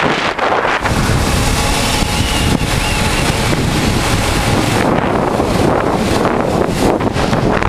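Loud wind rush buffeting the microphone of a 1988 Honda Transalp on the move, with its V-twin engine running steadily underneath.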